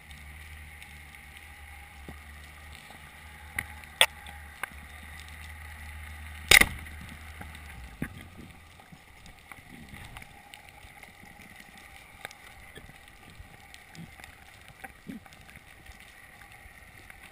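Underwater sound picked up by a diving camera: a steady low hum that stops about eight seconds in, broken by several sharp clicks and knocks. The loudest comes a little past the middle, followed by a faint crackling.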